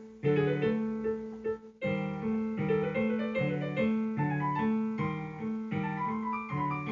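Piano music: a steady pattern of held chords and notes, pausing briefly a little under two seconds in.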